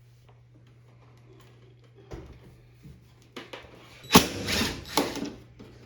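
Handling noise from work on a washing machine's rubber door seal: rubbing and scraping, with two loud rough surges about four and five seconds in, over a faint steady hum.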